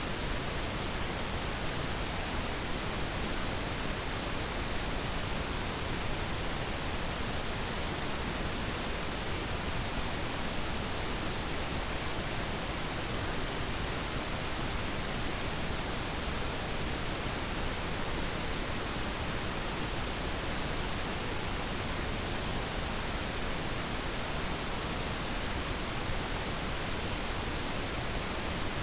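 Steady pink noise: an even, unchanging hiss with no other sounds.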